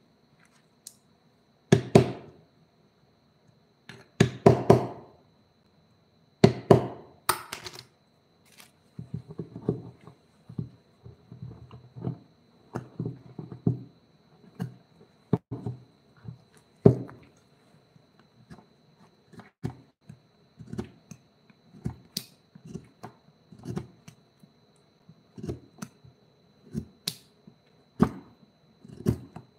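Irregular knocks, taps and clatter of objects being handled, with four louder knocks in the first eight seconds and lighter taps after. A faint steady high whine sits underneath.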